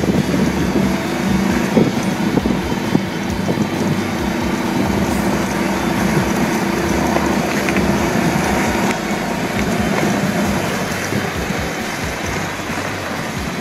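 Golf cart running and driving over rough trail ground, with a steady motor hum under rumbling and rattling noise.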